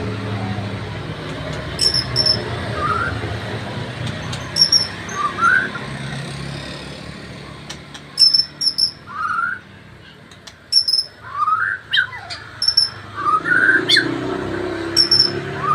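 White-rumped shama singing: a string of short rising whistles mixed with sharp, high paired notes, with brief gaps between phrases.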